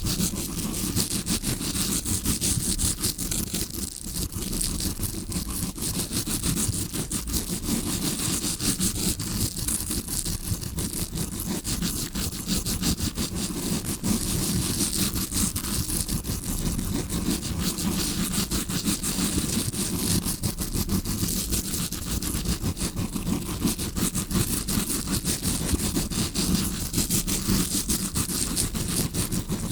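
Tawashi scrubbing brush scraped rapidly and continuously right against a microphone, a dense rough scratching with many fine strokes that imitates ear cleaning as heard from inside the ear.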